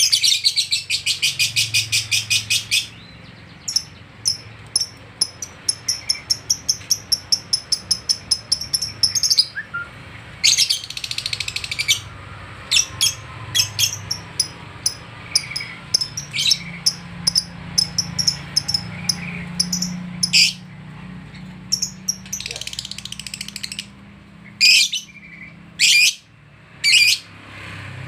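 Lovebirds chirping in fast trains of sharp, high-pitched chatter, broken by short pauses. The densest, fastest run comes in the first few seconds, with further clusters of rapid chirps about ten seconds in and again near the end.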